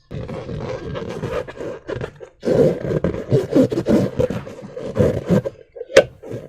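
Slime being squeezed and worked by hand with balloon rubber, making irregular wet squelching and rubbing sounds in quick uneven strokes. A single sharp snap about six seconds in is the loudest moment.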